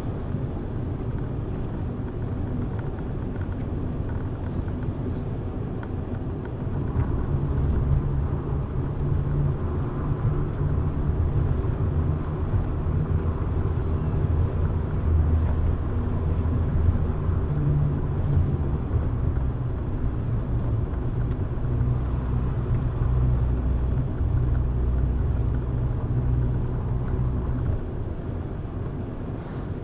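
Car driving on a road: a steady low rumble of engine and tyres that grows louder about seven seconds in and eases off near the end.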